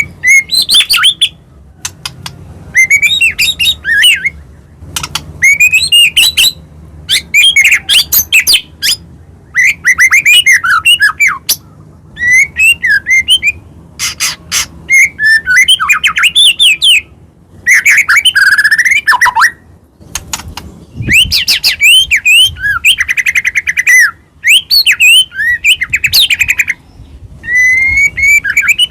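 White-rumped shama singing loud, rapidly varied phrases of whistles, trills and chatter. The phrases come in bursts of a second or two with short pauses between them.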